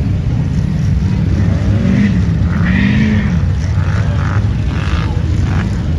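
Off-road vehicle engine running steadily, with the revs rising and falling twice about two to three seconds in.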